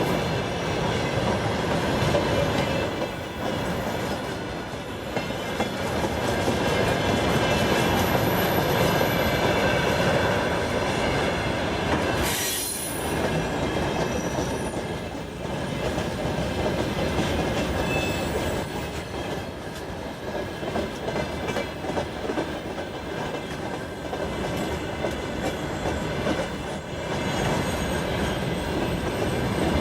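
Freight train cars rolling past, the wheels clattering over the rails with a thin steady squeal.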